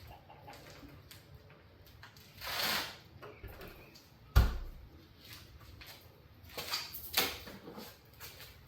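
Knocks, clicks and scraping from tools and fittings being handled while connecting a water heater's plumbing, with a brief scrape near three seconds in and one sharp knock about four and a half seconds in.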